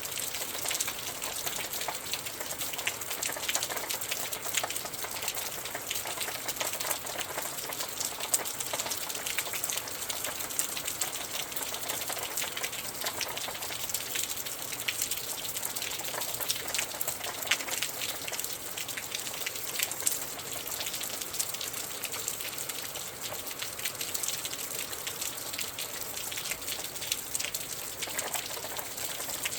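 Steady rain, a dense even patter of raindrops with no letup, together with wind.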